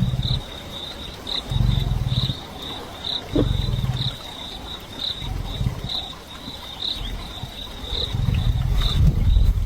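Lion giving deep, low calls in three bouts of about a second each, the longest and loudest near the end. An insect chirps at an even pace behind them.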